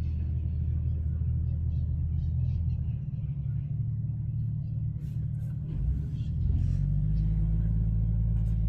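An off-road vehicle's engine running at low revs close by, a steady deep hum whose note shifts a little about six seconds in.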